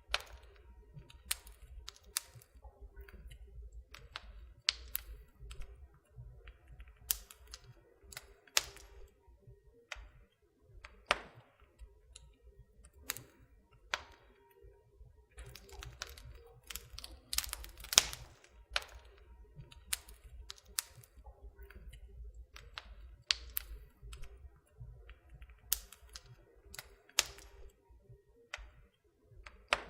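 Fire crackling in a fireplace: irregular sharp snaps and pops, a few much louder than the rest, over a low steady rumble.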